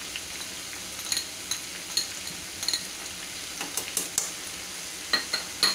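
Cubed pumpkin and onion frying in oil in a steel pan with a steady sizzle, while a spoon knocks and scrapes against the pan and plate about nine times.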